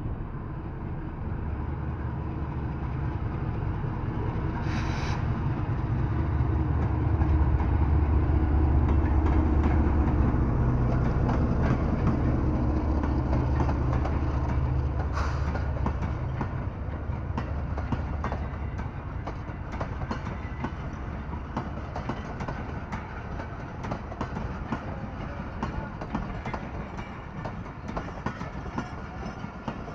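Passenger train passing close by. The locomotive's diesel engine hum builds and is loudest about eight to twelve seconds in, then fades as the coaches roll past with their wheels clicking over the rail joints.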